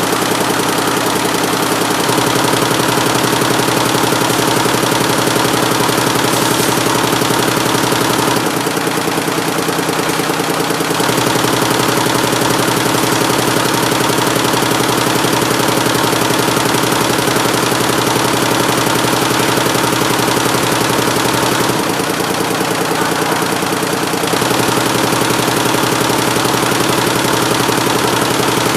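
176-needle mini Schiffli embroidery machine running, a loud, steady, fast repeating mechanical clatter. Twice, about a third of the way in and again about three-quarters through, the rhythm changes and the sound dips slightly for a couple of seconds before resuming.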